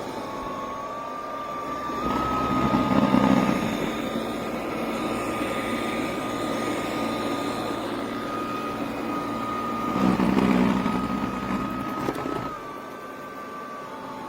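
A small electric motor running with a steady high whine over a rushing noise. The noise swells about two seconds in, peaks twice, and drops back near the end.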